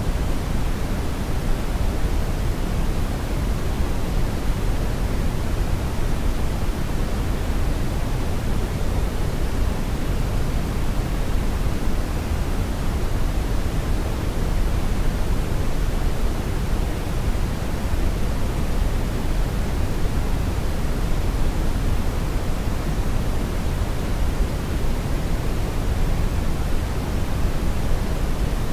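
Steady synthetic brown noise: a constant, even rushing hiss weighted heavily toward the low end, with no changes or events.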